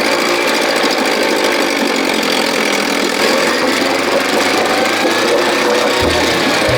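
1957 Montgomery Ward Sea King 5 hp two-stroke outboard motor running steadily on test, its speed shifting near the end as the throttle is moved.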